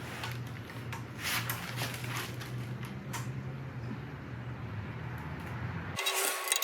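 A steady low hum with a few short rustles and light clicks of engine parts and bolts being handled. The hum cuts off suddenly about six seconds in, followed by sharper clicks.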